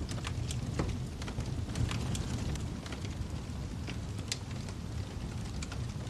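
Wood fire crackling: irregular sharp pops and snaps over a low, steady rumble of the flames, with a stronger pop about a second in and another a little past four seconds.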